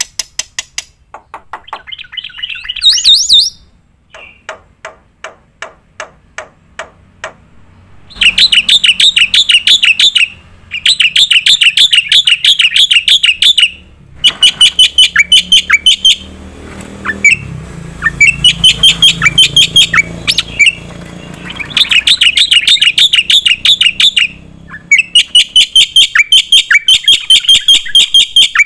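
Black-winged myna (jalak putih) singing at full tilt, packing in mimicked phrases. A few rising chirps, then a run of dry clicks, then from about eight seconds in, long bursts of very fast, shrill, repeated notes broken by short pauses.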